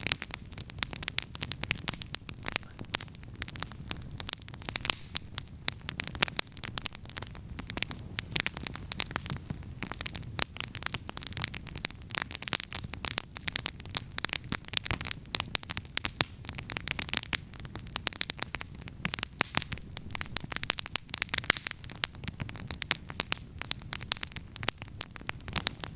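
Wood campfire crackling, with dense, irregular pops and snaps several times a second over a low, steady rumble.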